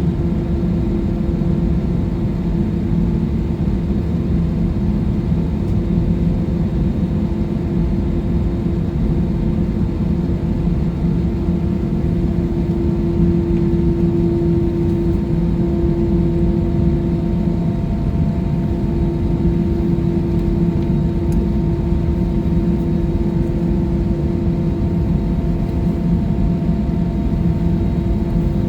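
Jet airliner cabin noise in flight: a steady engine drone and airflow noise with a constant hum of a few held tones, unchanging throughout.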